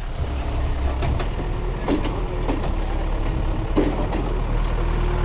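Heavy diesel engine idling with a steady low rumble, punctuated by several sharp metal clanks and a faint whine.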